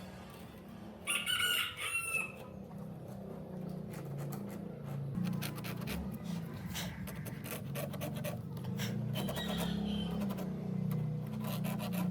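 A loud bird call lasting about a second, beginning about a second in. A steady low hum and scattered clicks and knocks run under it.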